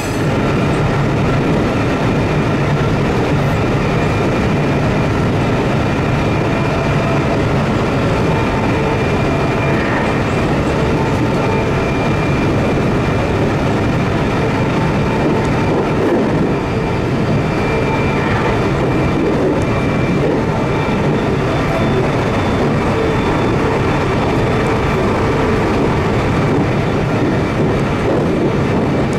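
Meitetsu limited express electric train running steadily: a continuous rumble of wheels on rail with a few faint steady tones over it.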